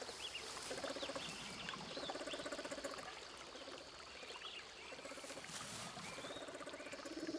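Spectacled bear giving its repetitive chirping growl: about five short, buzzy pulsing calls, each under a second, with faint high chirps in the background. The call signals curiosity toward another bear.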